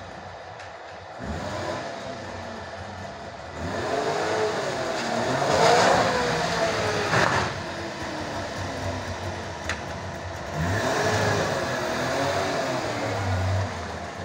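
Wartburg Tourist's three-cylinder two-stroke engine revving as the car drives slowly past. It revs up twice, loudest about six seconds in with the pitch falling away after it, then again near the end.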